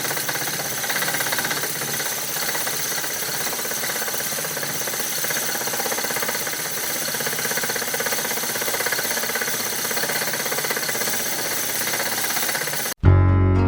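Wood lathe running with the spinning wood being worked: a steady rasping noise with a fast, even knocking in it. It cuts off abruptly near the end, and acoustic guitar music begins.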